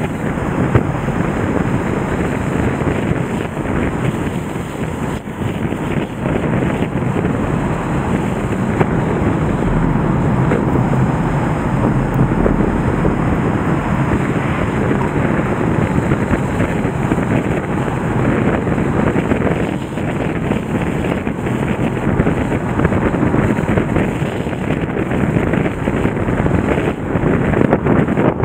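The Nagara River in flood after a typhoon: a loud, steady rush of high, fast-flowing water.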